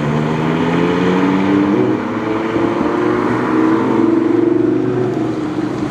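High-performance car engines running hard as supercars accelerate along a sprint course, with one loud, sustained engine note that slowly rises in pitch.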